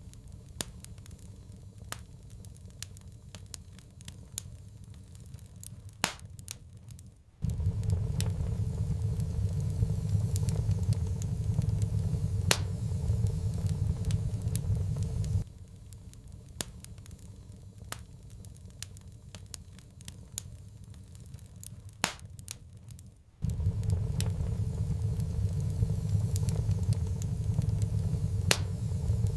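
Wood fire crackling in a fireplace, with scattered sharp pops. A low rumble drops out early on, comes back for about eight seconds, drops out again and returns near the end.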